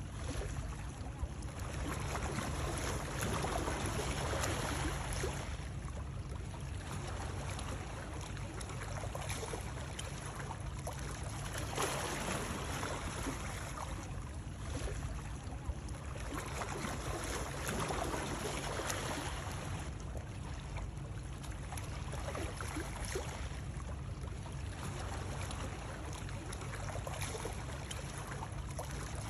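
Steady rush of running water, swelling and easing every few seconds over a constant low rumble, played as a soothing white-noise sound.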